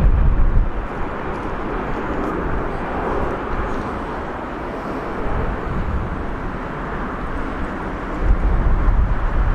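Steady rushing noise of a passing vehicle, with stronger low rumble in the first moment and again near the end.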